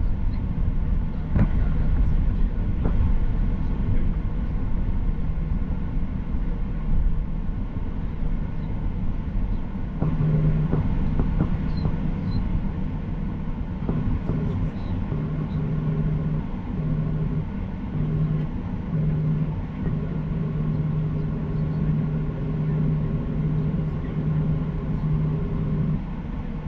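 Boeing 737-800 cabin noise with the jet engines running: a steady low rumble with a few knocks in the first few seconds. A low hum comes in about ten seconds in and wavers on and off.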